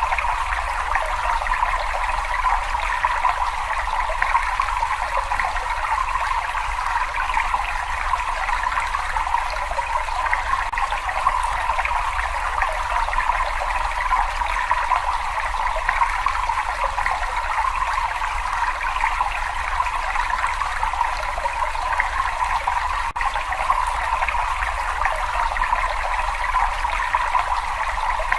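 Water running and trickling steadily in a cave: an even rushing noise with a faint low rumble underneath.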